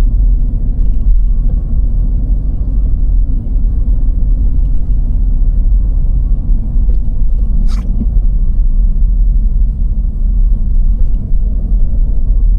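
Steady low rumble of a car driving on snow-covered roads, tyres and engine heard from inside the car. One short, sharp, high-pitched sound cuts in once a little past halfway.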